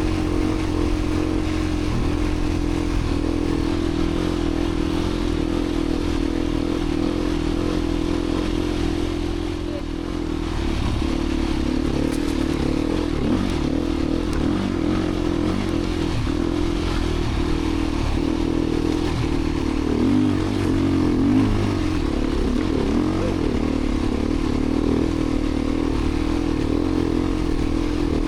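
Beta 350 RRS dirt bike's single-cylinder four-stroke engine running under way at fairly steady revs. The throttle eases off briefly about ten seconds in, and the revs waver up and down through the middle.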